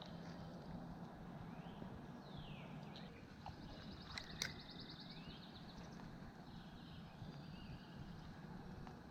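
Faint birdsong over steady outdoor background noise: a few down-slurred whistles, then a rapid even trill about halfway through. Two sharp clicks come close together about four seconds in.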